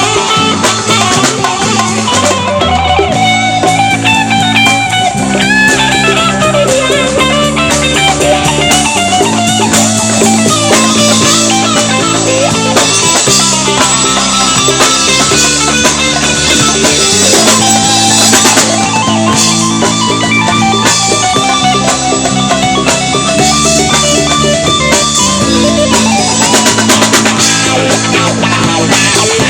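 Live rock band playing an instrumental passage: a guitar lead with bending notes over bass guitar and drum kit, with no singing.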